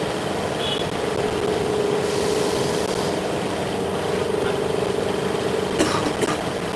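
Steady mechanical hum, with two sharp clicks near the end.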